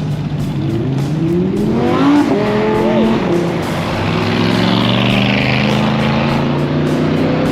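A car engine revving up, its pitch climbing as it accelerates for about two seconds, then easing off and running on.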